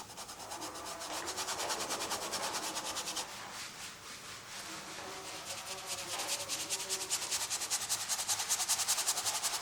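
Rapid back-and-forth rubbing strokes of acrylic paint being worked onto canvas, a dry scratchy scrubbing that grows louder and quicker in the second half.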